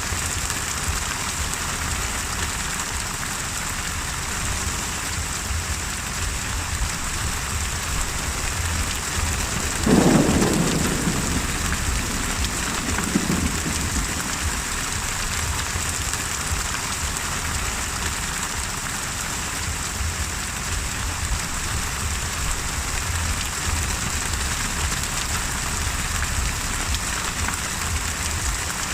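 Steady heavy rain hissing, with one loud clap of thunder about ten seconds in that rumbles away over a couple of seconds, and a smaller rumble soon after.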